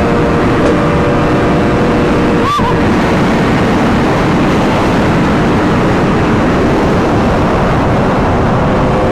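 Honda CBR1000RR sportbike engine running hard at speed, with heavy wind rush over it. About two and a half seconds in the engine note breaks briefly, then carries on.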